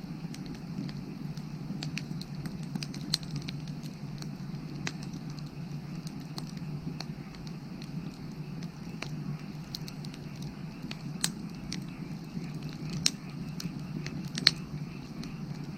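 Firewood burning in an open fire: a steady crackle with scattered sharp pops, the loudest a few seconds in and three more in the last third.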